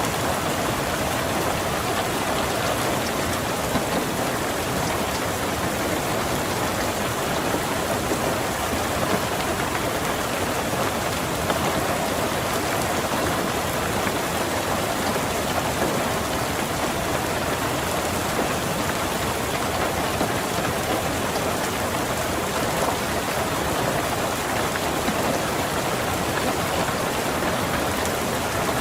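Steady heavy rain drumming on a car's roof and windows, heard from inside the car.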